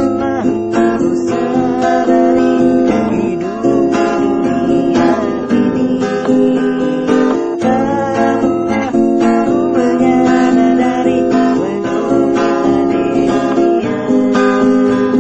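Acoustic guitar strummed in a steady chord rhythm.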